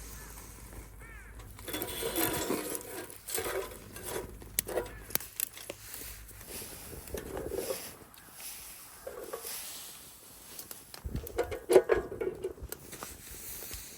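Irregular rustling with scattered light knocks and clicks, loudest about three-quarters of the way through.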